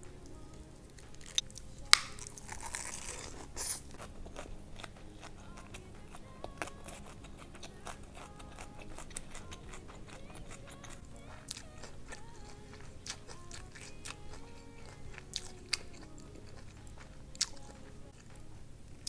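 Biting and chewing of a napa cabbage leaf wrap filled with oily fried rice, duck intestines and gizzards: crisp crunches and wet mouth clicks, the sharpest crunch about two seconds in.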